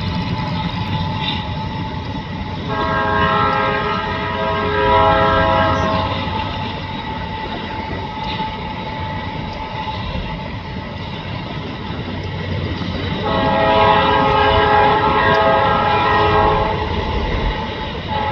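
Freight train locomotive's air horn sounding two long chord blasts several seconds apart, over the steady rumble of the passing train.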